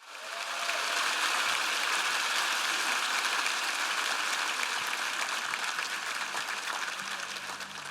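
A congregation applauding, the clapping swelling quickly at the start and then slowly thinning out. Low steady tones come in underneath about two-thirds of the way through.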